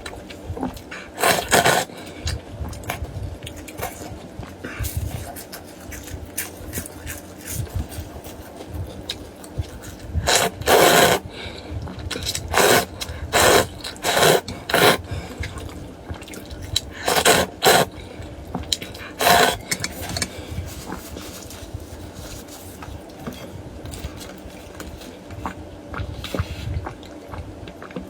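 Close-miked eating of duck blood vermicelli soup: wet slurps of noodles and broth, with soft chewing between them. The longest slurp comes about ten seconds in, followed by a quick run of four shorter ones, then a few more.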